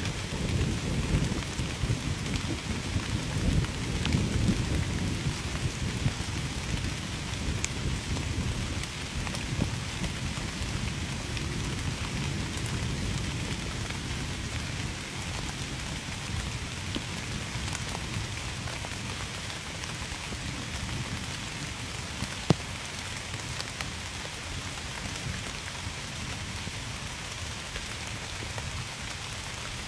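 Steady heavy rain falling, with a low rolling rumble of distant thunder over the first several seconds that fades away. A single sharp tap stands out about two-thirds of the way through.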